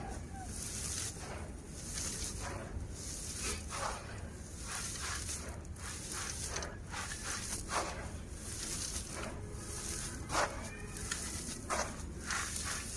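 Dry, gritty dirt (sand-cement chunks) being crumbled and crunched, with irregular crunches about once a second over a steady grainy hiss of falling grit.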